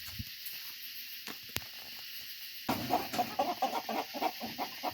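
Faint hiss with a single sharp click, then about two and a half seconds in a flock of chickens roused from the roost at night breaks into rapid, overlapping clucking.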